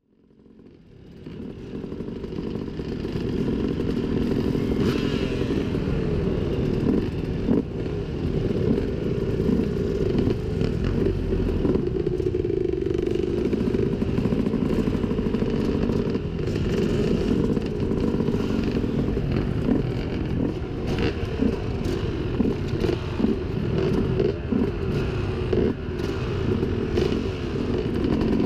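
Dirt bike engine running under load, heard muffled on an on-board camera, with short knocks and clatter from riding over rough ground. It fades in over the first few seconds.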